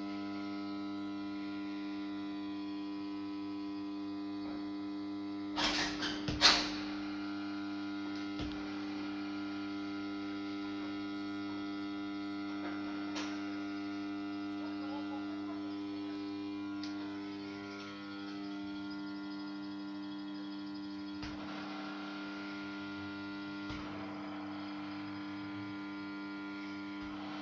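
Electromagnetic choke ballast (250 W, two-winding) of a ЖКУ-15 high-pressure sodium street-light fixture humming steadily with a buzzy mains hum. A quick cluster of loud clicks comes about six seconds in, and a few faint ticks follow later.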